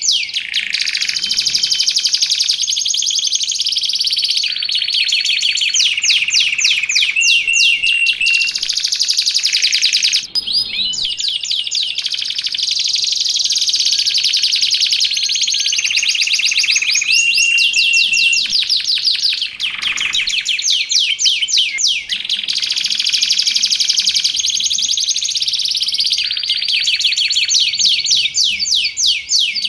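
Canary singing a continuous, loud song of rapid trills and rolls, changing from one trill to another every second or two, with some steady held notes among them.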